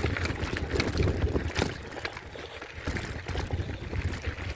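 Wind rumbling on the microphone and tyre noise from a folding e-bike on the move, with scattered clicks and rattles. The rumble eases off about halfway through.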